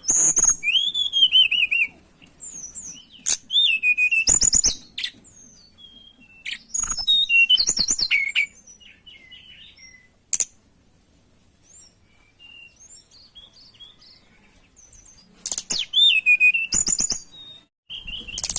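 Tledekan gunung songbird singing in short bursts of high, wavering whistles and quick trills, phrases repeating every few seconds with a quieter pause of about four seconds midway. A few sharp clicks come between the phrases.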